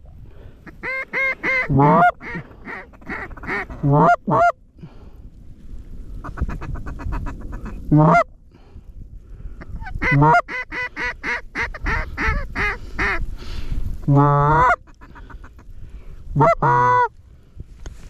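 Goose calling, loud and close: runs of rapid short clucks and several drawn-out honks that slide in pitch, with wind rumbling underneath.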